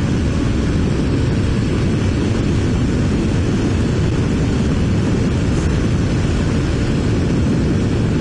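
Steady rush of wind buffeting a helmet-mounted microphone on a moving Honda VFR750 motorcycle, with the engine and road noise mixed in underneath; it stays unchanged throughout, heaviest in the low end.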